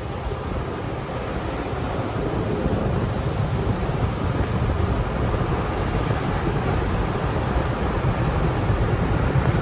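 Automatic tunnel car wash equipment heard from inside the car: a steady rushing noise that slowly grows louder.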